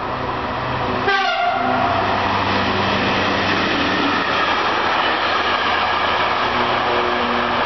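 A rail maintenance train, a red works vehicle with a crane hauling flat wagons, passing close along the track: a steady engine note at first, then about a second in the wheel and rail noise grows louder and stays steady as the train goes by.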